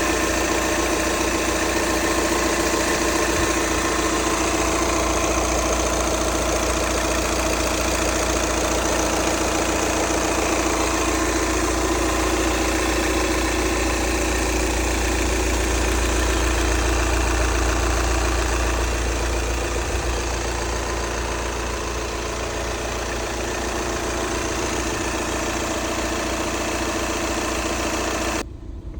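Volkswagen Passat 2.0-litre diesel engine idling steadily, heard close up, with a constant low rumble. The sound drops away abruptly near the end.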